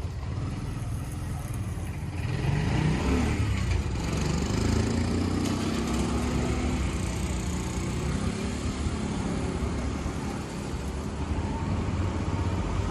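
Road traffic noise: motor vehicles running and passing, with an engine rising in pitch about two to three seconds in.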